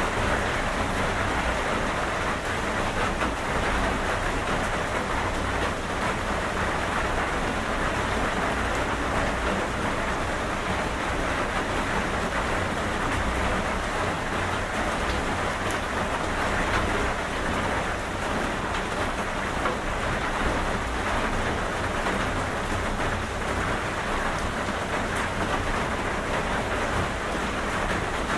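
Steady rain falling, an even hiss with a low rumble underneath that holds without a break.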